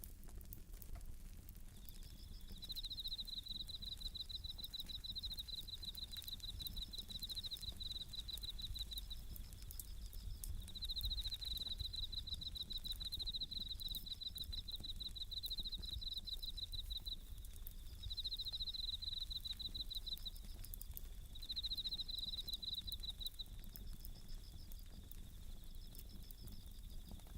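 Japanese bell crickets (suzumushi) singing: high, ringing trills repeated over and over, each lasting a second or two. Beneath them a wood fire crackles with small, scattered snaps.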